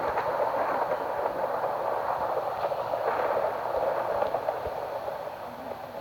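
Heavy rain during a thunderstorm: a steady, even rushing hiss that eases slightly near the end.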